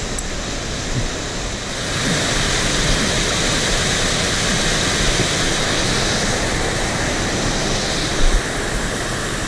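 Rushing whitewater of a small cascade in a mountain torrent: a steady water noise that grows louder about two seconds in, with a short knock near the end.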